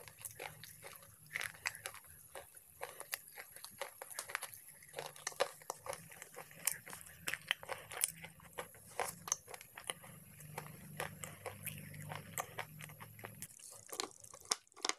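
Close-up chewing and crunching of slate pencil: irregular sharp crackles and cracks as the brittle slate is bitten and ground between the teeth, with wet chewing of the pasty mouthful.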